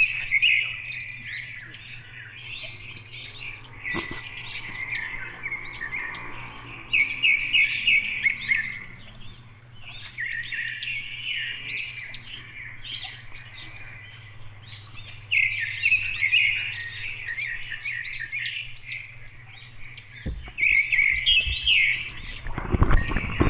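Small birds chirping in repeated short bursts over a steady low hum, with low rumbling noises near the end.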